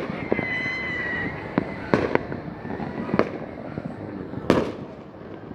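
Fireworks display: aerial shells bursting with sharp bangs at irregular intervals, about four big ones, the loudest near the end. A high whistling tone sounds for about a second near the start.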